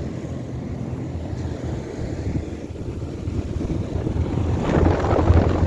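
A 2008 Trane XB13 3-ton central air conditioner's outdoor condensing unit running: a steady hum from its Alliance scroll compressor under the rush of air from the condenser fan. It grows louder near the end.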